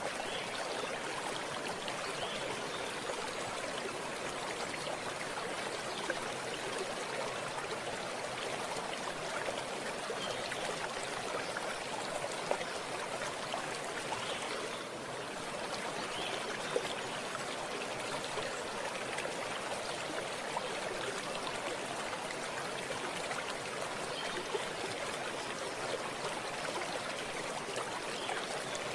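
Running water of a stream, a steady rushing and trickling with a few small splashes.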